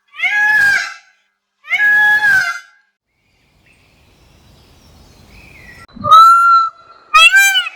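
Loud bird calls: two drawn-out, arching calls in the first three seconds, then after a pause a new call about six seconds in, followed by a quick run of short arching calls near the end.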